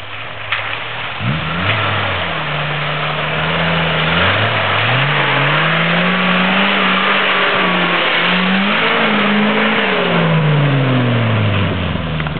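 Suzuki SJ413's small four-cylinder petrol engine revving under load as the 4x4 drives through a shallow ford and pulls away, its pitch rising and falling several times. Under the engine there is a steady hiss of noise.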